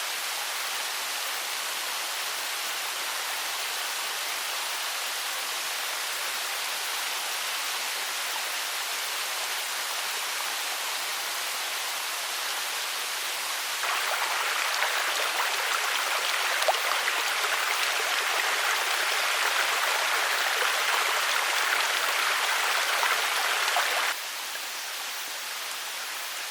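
Mountain stream running, a steady rush of water. About fourteen seconds in it jumps louder, and it drops back suddenly near the end.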